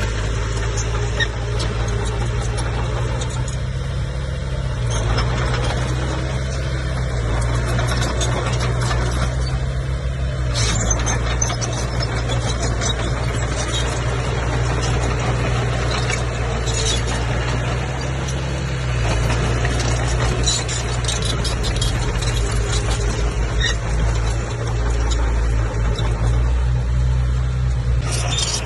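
Komatsu bulldozer's diesel engine running steadily under load, with scattered metallic clicks and clatter.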